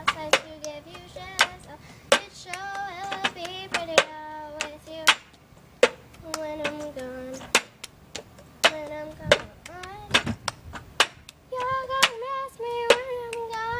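A high voice singing a simple melody with short pauses, over sharp hand claps at an uneven pace.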